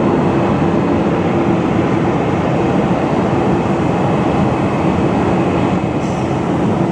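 Jet airliner engines running steadily, a loud even rumble with a faint high turbine whine over it.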